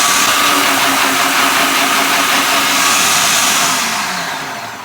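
Food processor motor running at full speed, blitzing onion, garlic, ginger and chilli into a paste, then winding down in pitch near the end as it is switched off.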